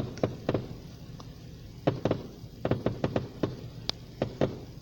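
Aerial fireworks shells bursting one after another: about a dozen sharp bangs at irregular intervals, several in quick clusters.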